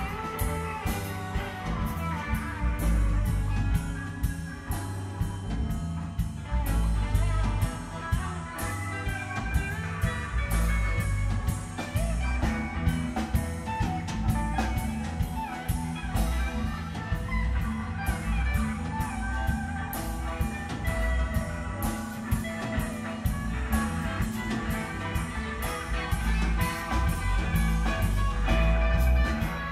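Live blues-rock band playing an instrumental jam: electric guitar lead lines over a steady drum kit beat and bass.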